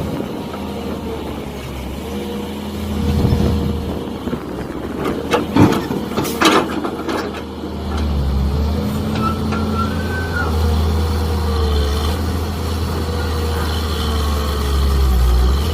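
Mini excavator working: its diesel engine drones steadily under a hydraulic whine that shifts in pitch as the controls move. About five to seven seconds in comes a cluster of clanks and scrapes from the bucket digging.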